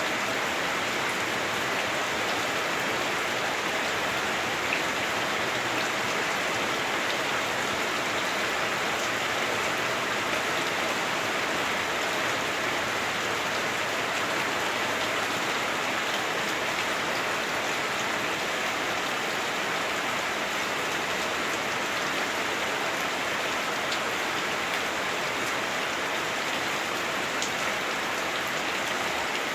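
Heavy rain falling on a house roof, heard from inside the house as a steady, even rush that does not let up.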